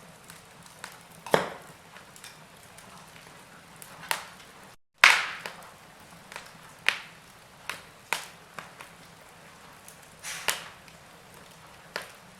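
Wood fire in a fireplace crackling: sharp pops and snaps every second or so over a soft hiss, the loudest about a second and a half in and again about five seconds in, with a brief total dropout just before the second loud pop.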